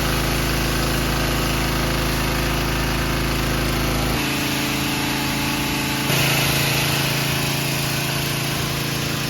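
Small gas engine of a pressure washer running steadily over a hiss. The tone shifts abruptly about four seconds in, and the hiss grows louder about six seconds in.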